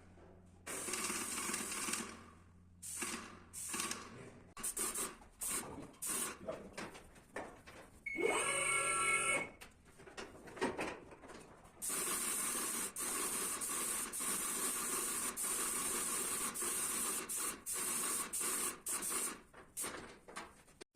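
Paint-spraying machine hissing as the spray gun is triggered in short on-off bursts, then held for a long steady pass, laying the first coat of paint. About eight seconds in, a brief whine rises in pitch and then holds.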